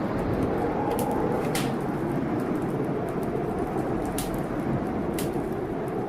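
Wood fire crackling in a fireplace, with four sharp pops spread through, over the steady rush of a storm.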